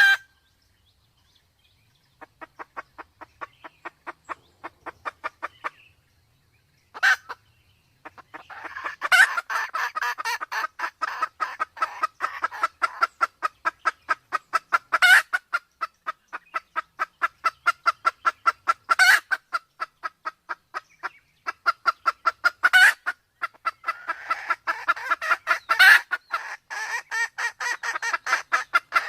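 Sumatran red junglefowl hen clucking in a long rapid run, about four to five clucks a second. It is fainter at first and becomes dense and continuous from about eight seconds in. A few louder sharp calls stand out every several seconds. These are the calls of a hen in breeding condition, used as a hunting lure.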